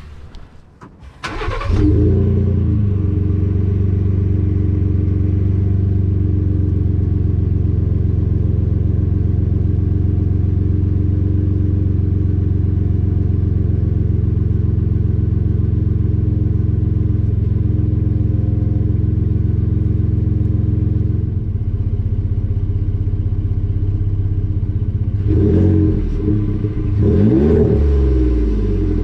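A 2018 Ford F-150's 3.5 EcoBoost twin-turbo V6, through a Flowmaster Delta 50 muffler and glass-pack cat-back exhaust, cranks and starts about a second and a half in. It settles into a steady idle and is blipped twice near the end.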